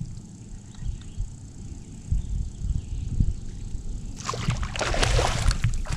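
Water splashing and sloshing beside a kayak, starting about four seconds in over a low rumble of wind on the microphone.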